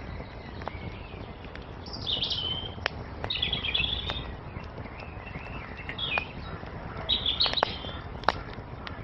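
Songbirds singing short chirping phrases, four or five in a row, over a wood fire crackling with sharp pops and a steady low rumble.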